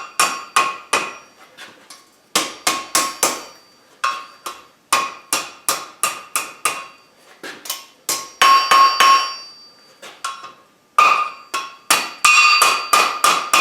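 Hand hammer striking hot mild-steel bar stock over the anvil horn, coaxing a scroll around. The blows come in quick runs of several at a time with short pauses between, each strike ringing brightly off the anvil.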